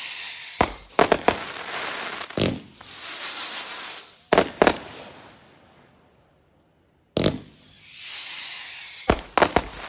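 Consumer aerial fireworks going off: clusters of sharp bangs, each followed by crackling hiss, with a whistling shell slowly falling in pitch at the start and again about seven seconds in. A brief lull comes just before the second whistle.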